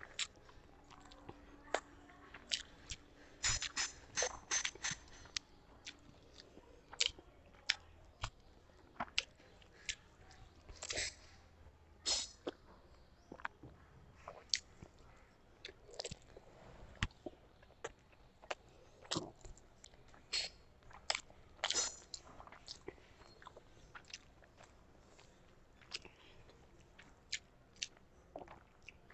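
A person chewing mouthfuls of rice and curry eaten by hand, picked up close by a clip-on microphone: irregular sharp clicks and crunches throughout.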